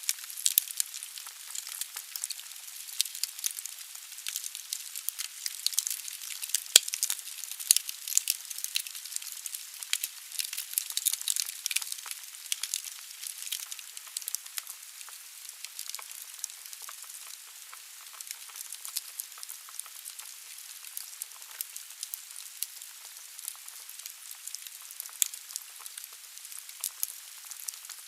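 Firewood burning in a fireplace: logs crackling in a steady stream of small pops over a soft hiss, with one sharper, louder crack about seven seconds in.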